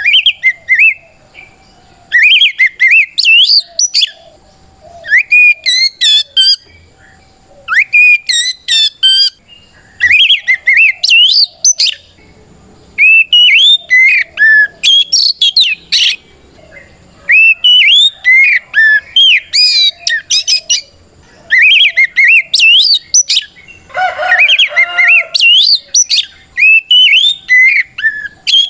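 Oriental magpie-robin singing loudly in full song: repeated bouts of rich whistled notes that glide up and down, each phrase a second or two long with short pauses between. A rougher, lower note breaks in once, near the end.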